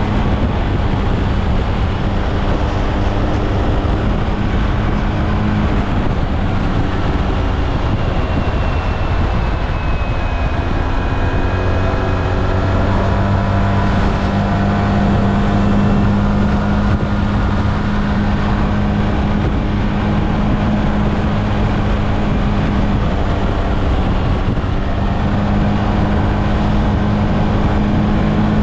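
SYM Maxsym TL 508 maxi-scooter's parallel-twin engine running under way, over steady wind and road rush. The engine note eases off about six seconds in and climbs back up around twelve seconds.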